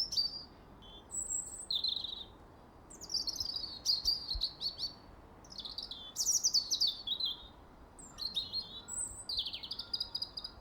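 Several small birds chirping, clusters of quick high chirps that fall in pitch, coming in bursts every second or two over a faint steady hiss.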